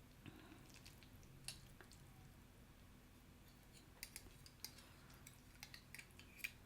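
Near silence with faint, scattered small clicks and taps, one about a second and a half in and a cluster in the second half.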